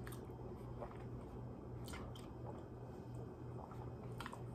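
Faint chewing of a soft strawberry mochi, with a few small wet mouth clicks.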